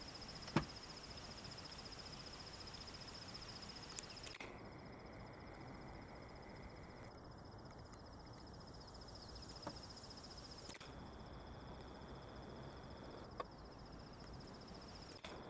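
Faint outdoor ambience with a steady high-pitched insect trill and a few sharp clicks, the loudest about half a second in. The background shifts abruptly several times, and the trill briefly drops out.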